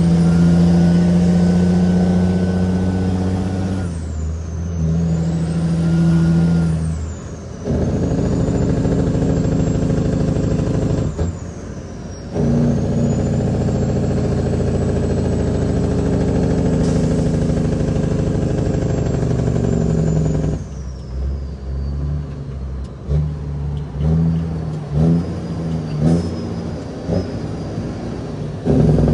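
Cat 6NZ inline-six diesel in a heavily loaded Kenworth W900L pulling through the gears. The engine note drops and picks up again at each shift, about three times, with a high turbo whine above it. Later it eases off to a lower, uneven note.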